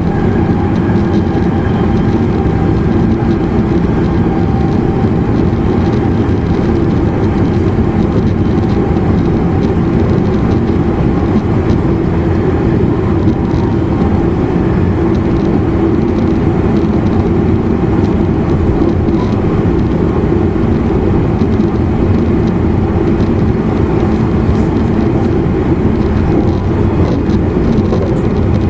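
Steady running noise inside the motor car of a JR East E259 series Narita Express electric train at speed: wheels rolling on the rails with the traction motor's hum. A faint steady whine is heard in the first several seconds and fades away.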